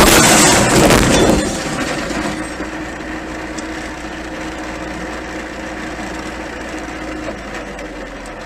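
A car crash: a loud impact lasting about a second and a half, followed by a steady drone from the vehicle.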